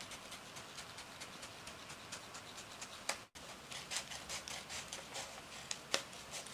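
Faint handling noises of cardboard craft pieces being fitted together: scattered small clicks and taps, a couple of sharper ticks near the middle and near the end.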